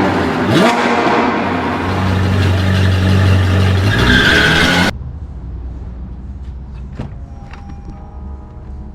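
Loud car engine revving, with a quick rise in pitch near the start, cut off abruptly about five seconds in. Soft background music with sustained bell-like notes follows.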